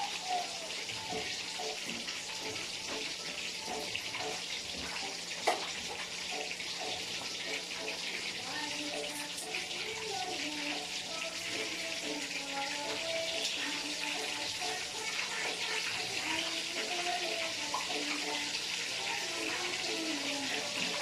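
Chicken pieces deep-frying in hot oil, a steady sizzle, with a single sharp click about five and a half seconds in.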